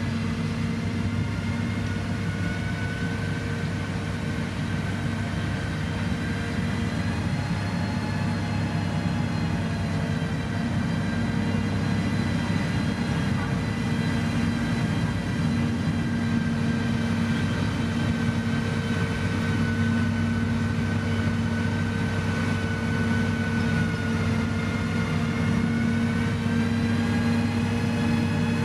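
Heavy diesel construction machine's engine running steadily, with a high whine that drifts slowly up and down in pitch.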